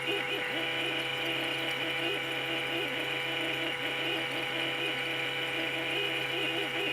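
Steady mechanical running sound: a constant low hum with a wavering whir above it.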